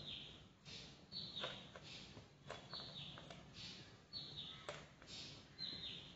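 A bird calling over and over: a short, high, falling chirp about every second and a half, with softer hissy notes in between. Faint clicks come now and then, as tomato strips are laid on a pizza on a paper plate.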